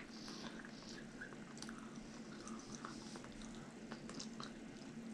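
Faint, wet chewing of a mouthful of chicken enchilada, with scattered small mouth clicks.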